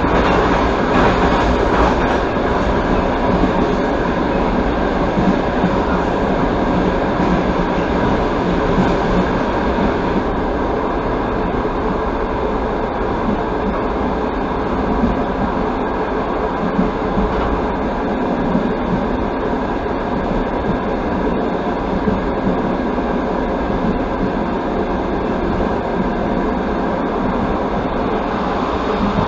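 Passenger train carriage running along the track, heard from inside the car: a steady rumble and hiss of wheels on rails.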